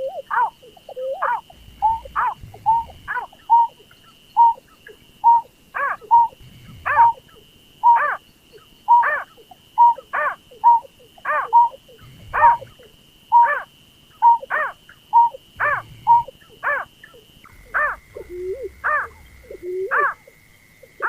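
Berkik (pekung) paddy-field bird calling over and over, short sharp falling notes about one and a half a second, the call used to lure the bird. A steady high whine sits behind the calls and drops to a lower pitch near the end.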